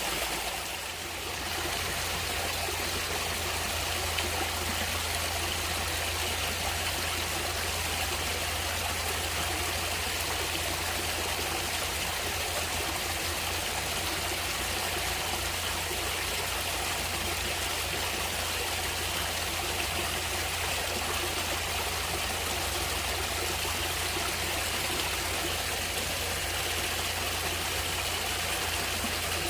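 Natural stream water running and trickling in a steady rush, dipping briefly about a second in.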